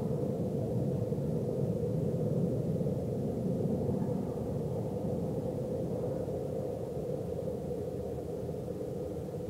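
A steady low drone with a rumble beneath it and a humming note in the middle, going on without a break and swelling slightly a few seconds in. It is an unexplained sound from the sky whose source is unknown.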